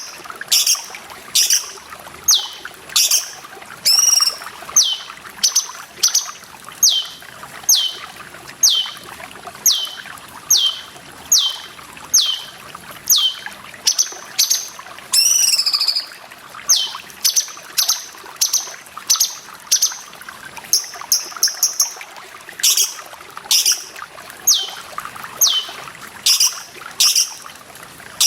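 Cucak cungkok calling over and over: short, sharp whistles that each drop steeply in pitch, about two a second, with a longer sweeping call twice. Trickling water runs faintly underneath.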